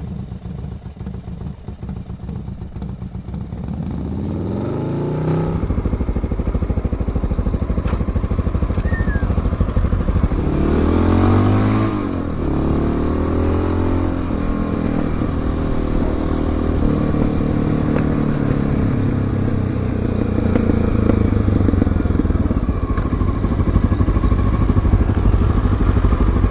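Motorcycle engine idling, then revving and rising in pitch several times, moving between steadier engine speeds later on.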